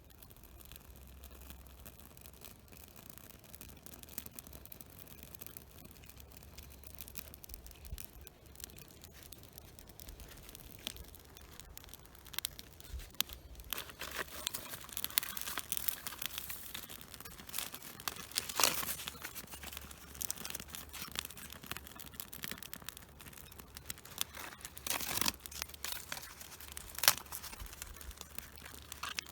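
A knife blade scraping birch bark in irregular dry strokes, with rustling and crinkling of the bark. The strokes are sparse and soft at first, then louder and denser from about halfway through, with a few sharp, harder scrapes standing out.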